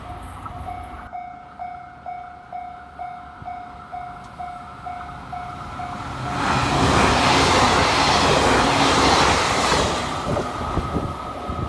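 A railway level-crossing bell dings steadily, about two strikes a second, for the first six seconds. An electric train then passes at speed, a loud rushing rumble for about four seconds that drowns the bell. The bell is heard again faintly as the train goes by.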